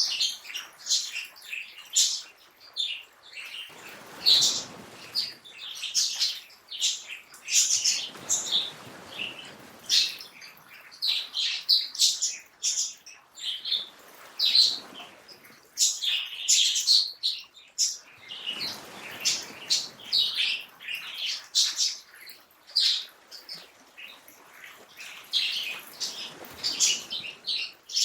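Many small birds chirping and twittering in a busy, continuous chorus of short high calls. Several brief swells of broader rushing noise rise under the chirps every few seconds.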